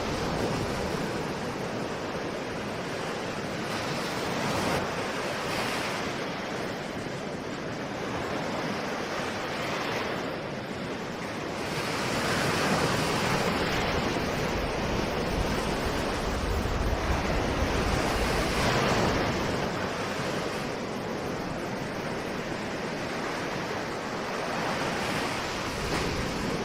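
Ocean waves breaking and washing on the shore, the surf swelling and easing every few seconds, with some wind.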